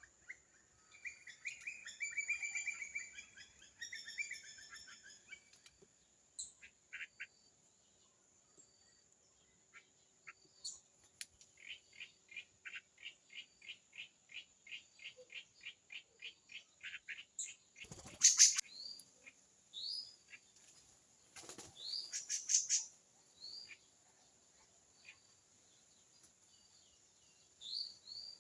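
Several small birds calling and singing: a warbling song in the first few seconds, then a run of about a dozen evenly spaced notes, and short rising chirps toward the end. Two sharp, loud knocks about halfway through, over a steady high tone.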